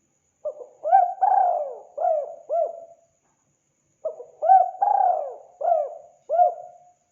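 Spotted dove (tekukur) cooing: two phrases of about five notes each, the second starting about a second after the first ends.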